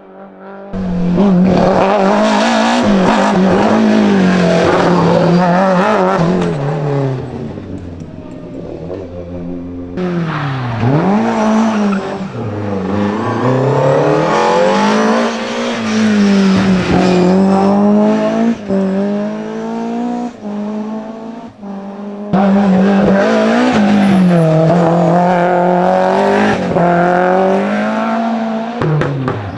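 BMW M3 engine running hard at high revs, its pitch holding, then dipping and climbing again several times. The sound changes abruptly twice, about a third and three-quarters of the way through.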